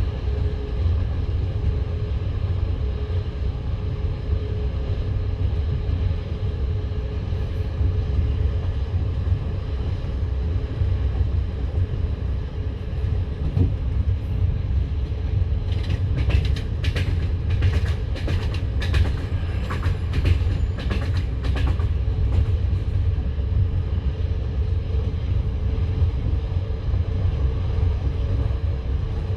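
Passenger train running along the line: a steady low rumble of wheels on rails. Just past halfway there is a run of sharp clacks lasting several seconds.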